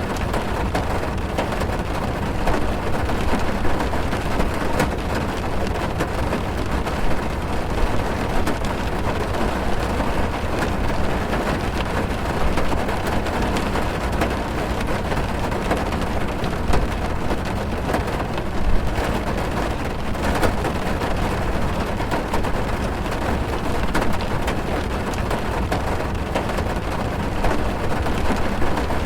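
Heavy rain drumming on a car's roof and windows, heard from inside the cabin: a steady rush with a deep rumble and many small drop clicks.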